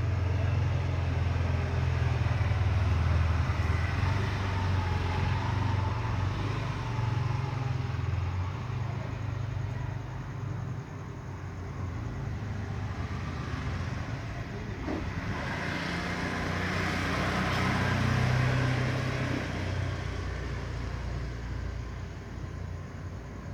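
Road traffic: a steady low engine rumble, with a vehicle passing that swells to its loudest about three-quarters of the way through and then fades.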